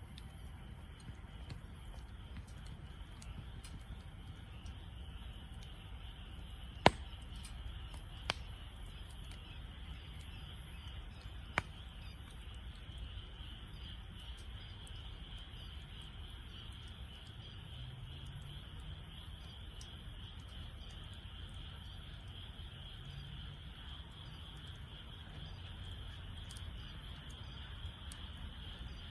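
Campfire wood burning, with three sharp pops from the firewood, the first and loudest about seven seconds in, the others a second and a half and nearly five seconds later. Behind it, a steady high-pitched insect chirring goes on throughout.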